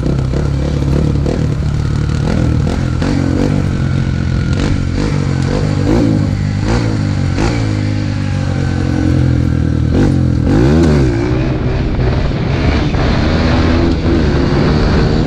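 Dirt bike engine running under way, revving up and down several times as the rider works the throttle.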